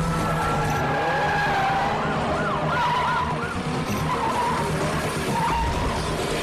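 Car-chase sound mix: car engines running hard and tyres skidding, with police sirens wailing and yelping.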